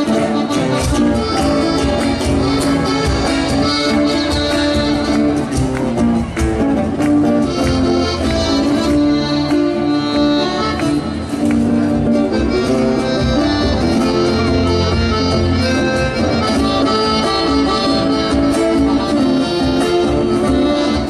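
Instrumental passage of Argentine folk music, led by accordion playing a continuous melody over a steady rhythmic accompaniment.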